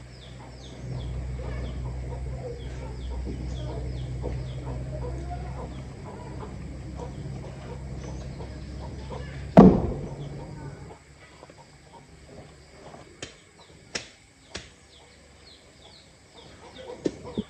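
Chickens clucking and peeping, with a steady low hum under the first part and a single sharp knock about ten seconds in.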